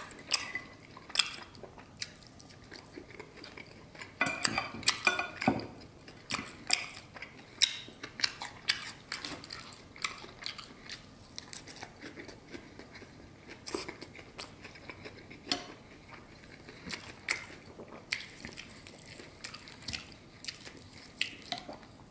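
Close-up chewing and biting of pan-seared New York strip steak, with wet mouth sounds and many small sharp clicks, louder for a moment about four to five seconds in. Now and then a knife and fork tap against the plate.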